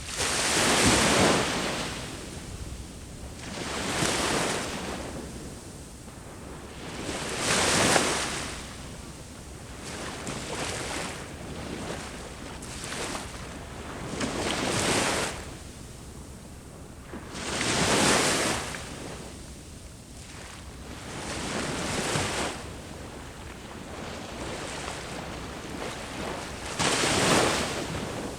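Sea waves breaking on the shore one after another, each a rush of surf that swells and dies away every few seconds.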